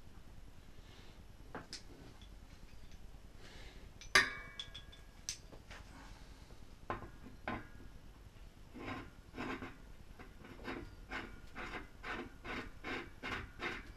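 Workshop work on a bicycle hub and its bearings: scattered metal clinks and knocks, the sharpest a ringing clink about four seconds in. In the second half comes steady light tapping, about two strikes a second.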